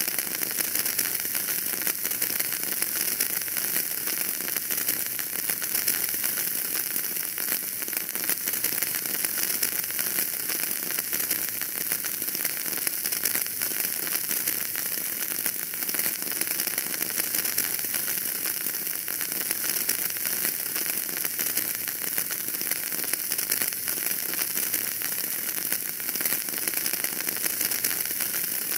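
Wood fire crackling steadily in a fireplace: a dense, even stream of small pops and crackles over a hiss.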